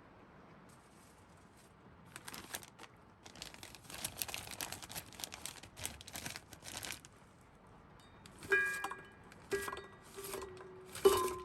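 Crinkling and rustling of handled packaging for several seconds, then four hard clinks, each ringing on briefly, like hard items being set down.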